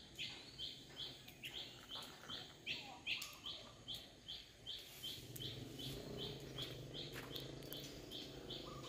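A bird calling a short, high chirp over and over, about three times a second, at a steady even pace. A faint low hum comes in about halfway through.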